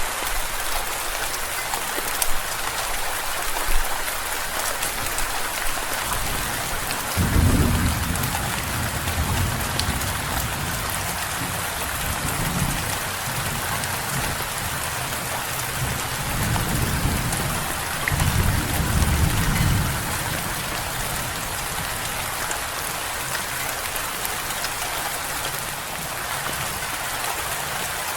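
Steady rain hissing without a break, with a long roll of thunder that breaks in about seven seconds in and rumbles on in several swells before dying away near twenty seconds in.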